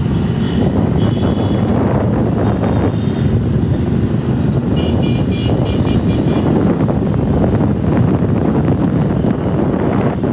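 Motorcycles riding in a moving group, engine and road noise mixed with wind buffeting the microphone. Short high tones come through near the start and again in a quick pulsing run around the middle.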